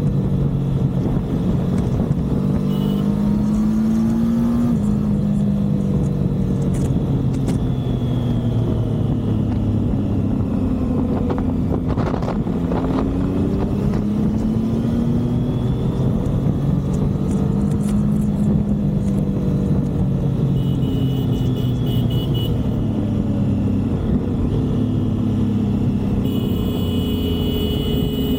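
Motorcycle engine on a highway ride under a steady rush of wind and road noise. Its pitch repeatedly climbs and falls as the rider accelerates through the gears and eases off.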